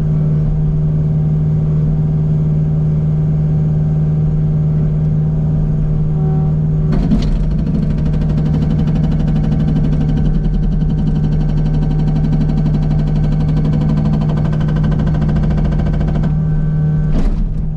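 Kubota U55 mini excavator's diesel engine running steadily under load while working a hydraulic rock hammer, with two sharp knocks, about seven and seventeen seconds in.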